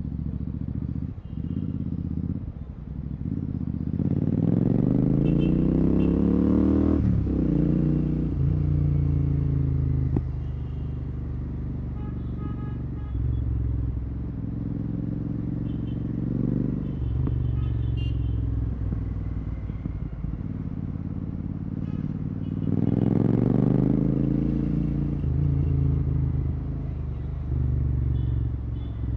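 Royal Enfield Continental GT 650's 650 cc parallel-twin through a Red Rooster aftermarket exhaust with no dB killer, pulling hard through the revs twice, about four seconds in and again about twenty-three seconds in, with lower-revving cruise and off-throttle stretches between.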